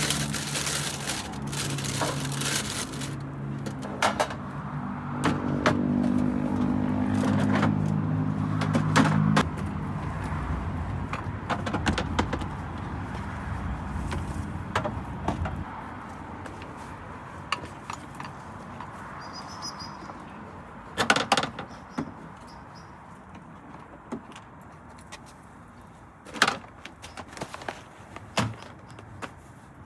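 A vehicle engine running with a steady low hum that shifts in pitch, then stops about nine seconds in. It is followed by scattered clicks and two louder knocks.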